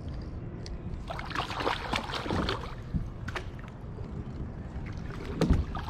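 Wind rumbling on the microphone over a kayak, with a run of splashing about a second in and a few sharp knocks, as a hooked rainbow trout is fought beside the boat.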